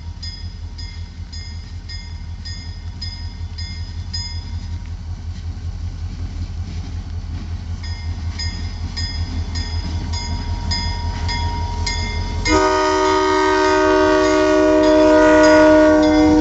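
Grade-crossing bell ringing steadily at about two to three strikes a second while an approaching diesel freight locomotive's engine rumble grows louder. About twelve and a half seconds in, the locomotive's multi-chime air horn sounds, held loud for about four seconds and cut off near the end.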